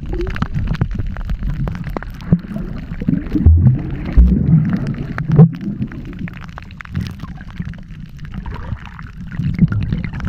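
Water gurgling and sloshing against the camera and microphone, with a steady low rumble and frequent small clicks, and a few louder low thumps in the middle.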